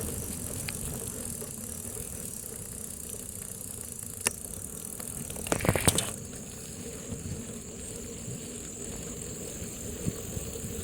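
A bicycle ride heard from a phone carried on the bike: a steady low rumble of tyres and air, with a few sharp rattles and knocks from the bike going over bumps. The loudest knocks come about six seconds in.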